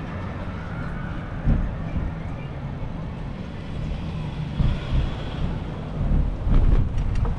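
City street traffic: passing cars and trucks under a steady low rumble that swells and fades unevenly, with a few short clicks near the end.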